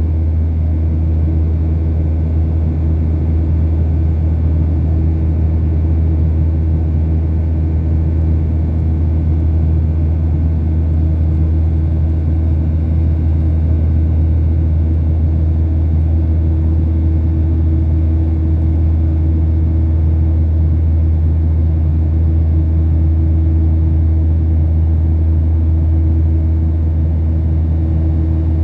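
Steady low drone inside the cabin of a Boeing 737-800, its CFM56 engines running at a constant setting, with a few faint steady hums over the rumble.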